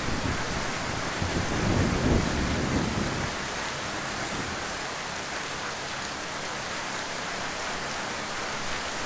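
Heavy rain falling in a steady hiss, with a low rumble of thunder dying away over the first three seconds.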